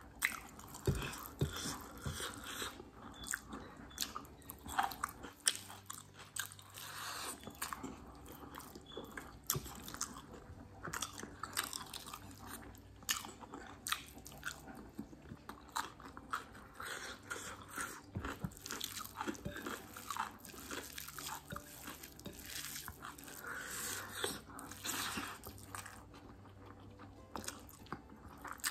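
Close-miked chewing of hand-eaten rice and chicken curry, with many irregular mouth clicks and smacks.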